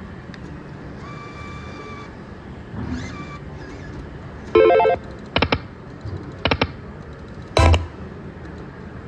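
Slot machine's electronic sound effects: a short beep-like tone about a second in, a loud chime about halfway, then pairs of short beeps and a loud sharp sound near the end, over a steady background noise.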